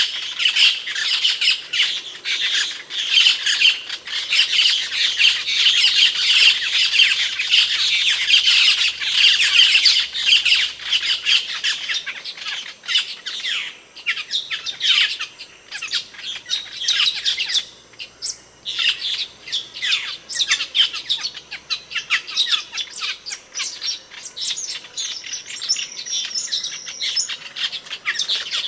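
Asian glossy starlings (cucak keling) calling: a dense run of sharp, high calls and squawks that thins out about halfway through, with a short pause a little after that.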